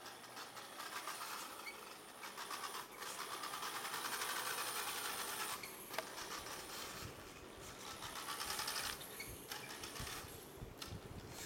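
Small electric motor and plastic gears of a toy sports car whirring as it drives, louder in two stretches, with a few light clicks.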